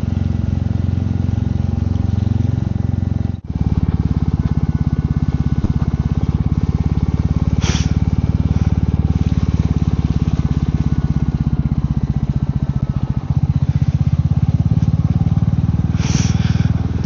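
Royal Enfield Meteor 350's single-cylinder engine running steadily under way, a fast even beat of exhaust pulses. The sound drops out briefly about three and a half seconds in. Two short hissing sounds come about eight seconds apart.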